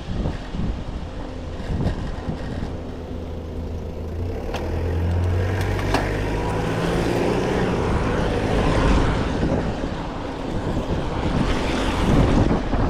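Typhoon wind buffeting the microphone in gusts, with a heavy low rumble. A low steady hum, such as a passing vehicle's, rises about four seconds in and fades by about seven seconds.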